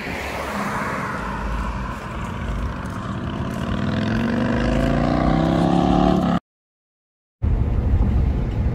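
Car engine accelerating, its pitch climbing steadily for a few seconds over road and wind noise. The sound cuts out completely for about a second, then steady driving noise returns.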